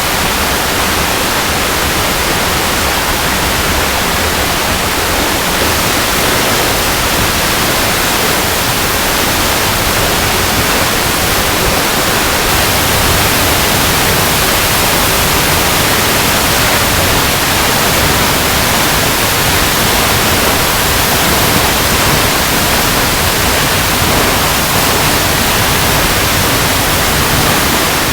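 Waterfall cascading over rocks: a steady, even rush of falling water that does not change.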